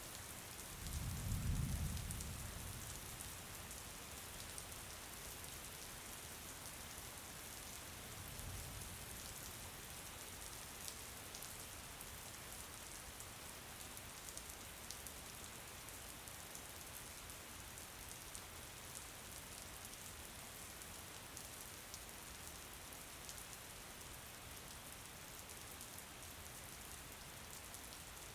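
Steady rain falling, an even hiss with many fine drop ticks. A low rumble swells about a second in, and a fainter one comes around eight seconds in.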